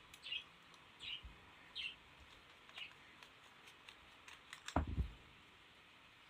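A small bird chirps four times, short high notes spaced under a second apart. Near the end comes a quick cluster of clicks and a dull knock, the loudest sound, like a small hard object being handled and set down.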